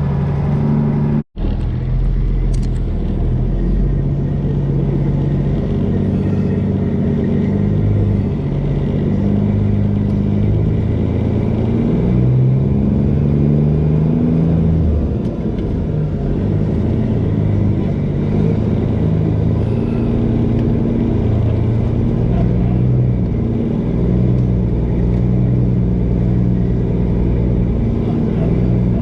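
Tanker truck's diesel engine running while driving, its low drone shifting up and down in pitch in steps, with a brief break in the sound about a second in.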